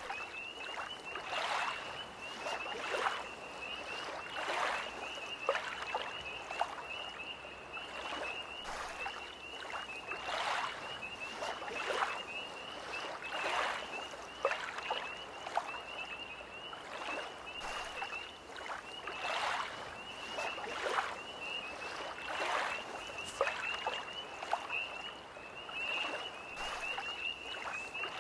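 Small lake waves lapping in soft splashes every second or so, under a steady high trill of a tree frog chorus.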